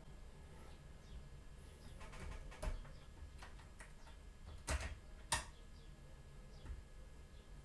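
A few sharp clicks and knocks of small hard parts being handled while an all-in-one desktop computer is taken apart. The three loudest come about 2.7, 4.7 and 5.4 seconds in, with softer ticking around them.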